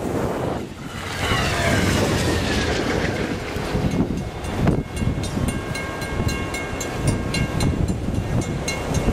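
Amtrak train passing close at speed through deep snow: a loud, steady rush of wheels on rail and thrown snow, with a falling whine as the head end goes by and rhythmic clicking of wheels over rail joints in the second half.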